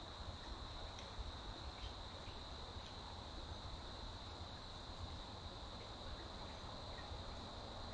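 Steady high-pitched chorus of insects such as crickets, over a low background rumble, with a few faint ticks.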